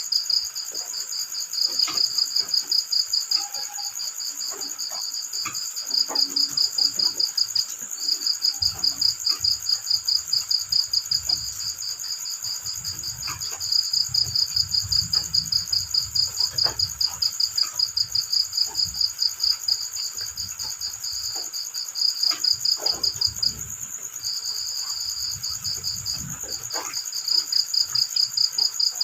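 Cricket chirping in a fast, steady pulsed trill, louder in stretches of several seconds and breaking off briefly a few times. A faint low rumble comes and goes beneath it.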